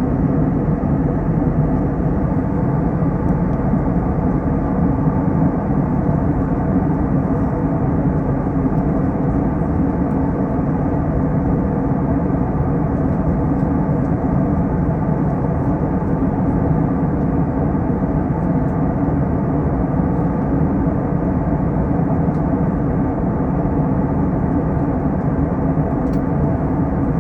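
Steady drone of an Airbus A321 airliner in flight, its jet engines and the rush of air heard together as a constant low hum with no change in pitch or level.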